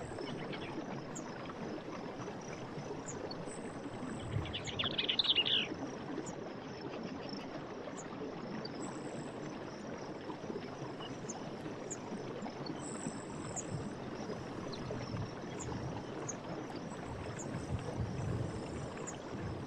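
Steady rush of running stream water, with birds chirping briefly and a louder bird trill about five seconds in.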